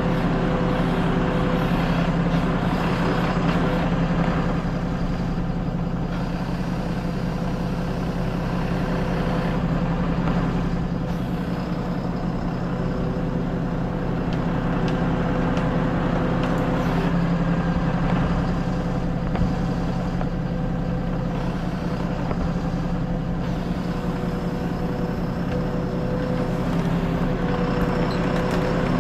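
Heavy truck engine running steadily, a constant deep hum with a fainter steady whine above it.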